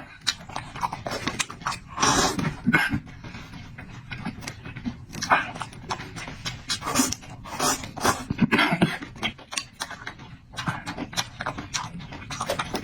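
A person eating close to the microphone: irregular wet chewing smacks and mouth clicks, with a few longer hissing bursts of breath or slurping.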